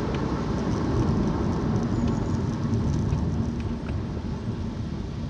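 Steady road and engine rumble inside a moving vehicle's cabin, with a few faint clicks.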